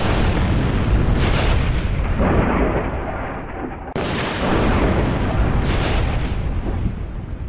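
Close thunder: a sharp crack at the start and another about four seconds in, each followed by a crackle and a long, heavy low rumble.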